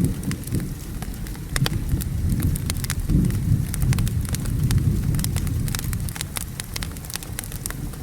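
Wood fire crackling in a fireplace, with frequent sharp pops and snaps, over a low rolling rumble of thunder and the steady hiss of rain.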